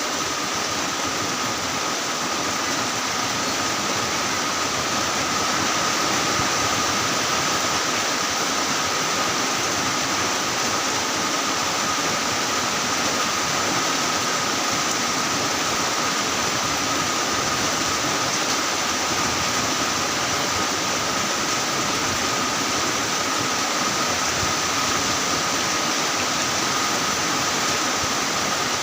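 Heavy rain falling steadily, a dense even hiss with a faint steady high tone running through it.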